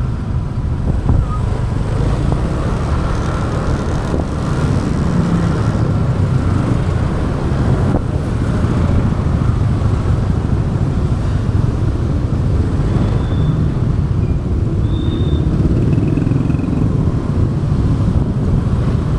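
A motorbike on the move, heard from a camera mounted on the bike: a steady low rumble of wind on the microphone, engine and road noise, with surrounding traffic.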